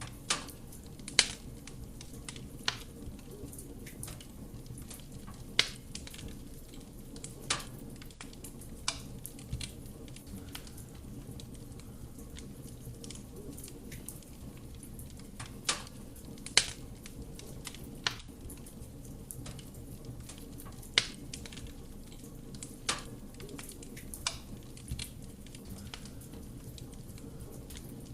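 Wood fire burning in a fireplace: a steady low rush of flame with sharp, irregular pops and crackles of the burning wood, about a dozen in all, the loudest about a second in and near the middle.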